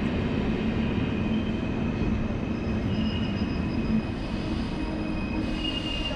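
DB ICE 2 high-speed train rolling slowly along the platform, a steady low rumble with a thin, steady high squeal from the wheels or brakes above it.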